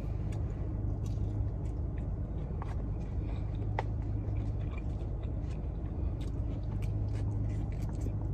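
A person chewing food, with a few short clicks of a fork against a molded fiber bowl, over the steady low hum of a car's cabin.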